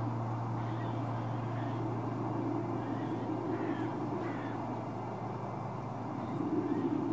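Birds calling, with scattered short falling chirps and a few harsher calls, under a low held note of soundtrack music that fades out about six seconds in.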